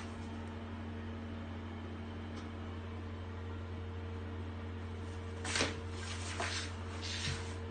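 A steady low electrical or machine hum with faint steady tones above it, and three brief rustling knocks in the last couple of seconds.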